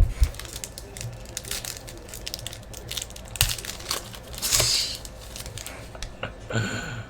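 Crinkling and rustling of trading-card pack wrappers and cards being handled, with many small clicks. About four and a half seconds in there is a louder brief tearing rasp, as of a pack being ripped open.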